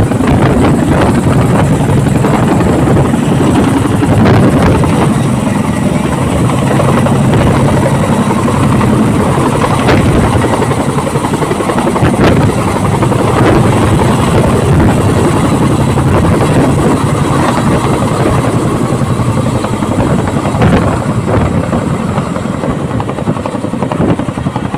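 Boeing CH-47 Chinook twin-rotor helicopter running loud and close, its rotors beating steadily throughout.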